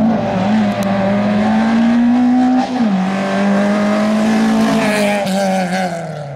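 Hatchback rally car engine held at high revs, its pitch stepping down about two and a half seconds in and dipping and rising again near the end, as the car is driven hard through a tight course.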